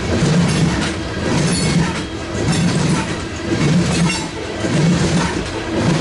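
Freight train cars rolling past, the wheels clicking over the rail joints in a steady beat about once a second.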